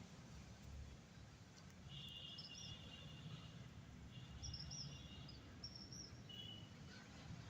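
Faint bird calls, a few high chirping phrases about two seconds in and again about four to six seconds in, over a low background rumble.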